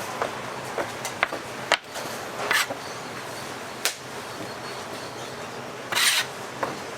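Short scrapes, rubs and light knocks of dough and utensils being worked at a twisted-doughnut stall, over a steady hiss.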